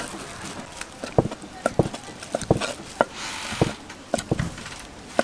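A knife chopping on a cutting board: about a dozen sharp, irregular knocks, roughly two a second, typical of sundae and innards being cut to order. A brief rustle about three seconds in.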